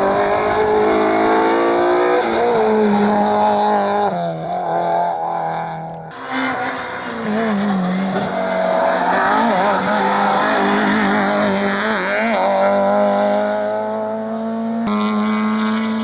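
Rally car engines at hard throttle, the pitch climbing and then dropping at each gear change. The sound breaks off abruptly about six seconds in and again near the end.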